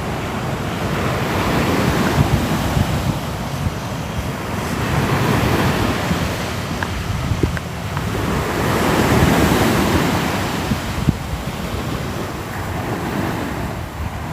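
Sea waves washing onto the shore, the surf noise swelling and falling back in about three slow surges.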